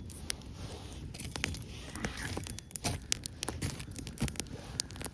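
Campfire crackling, with many irregular sharp pops from the burning wood.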